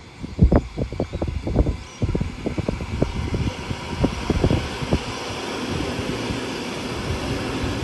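Wind buffeting the microphone in irregular low thumps, with a steady rushing rumble building from about three seconds in as a train approaches.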